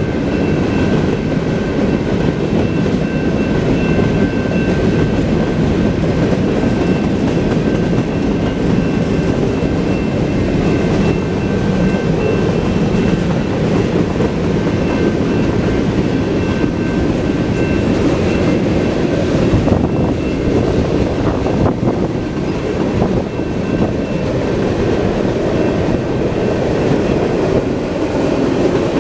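Freight train cars, covered hoppers and gondolas, rolling steadily past: a continuous rumble of steel wheels on rail with clickety-clack over the rail joints and a faint, steady high whine.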